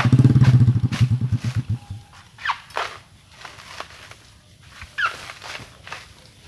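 A small engine running with a fast, low putter that cuts off about two seconds in. It is followed by several short, high animal calls falling in pitch and a few faint knocks.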